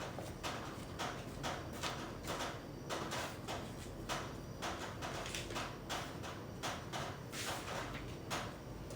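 Water from an air conditioner above dripping straight down and hitting a hard surface, because the unit has no drain hole. The drips fall in irregular ticks, roughly two a second.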